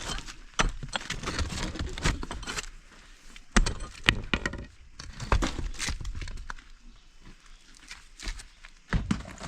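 Irregular knocks and clatter, with sharper hits about half a second in and around three and a half and four seconds.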